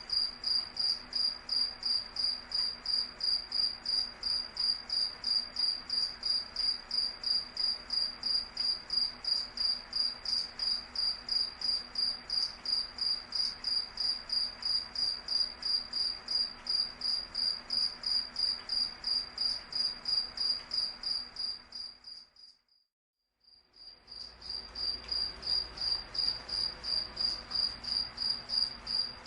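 A cricket chirping steadily, a high-pitched tone pulsing evenly about three to four times a second over a faint background hiss. About two-thirds of the way through, everything cuts out for a second or two, then fades back in and the chirping resumes.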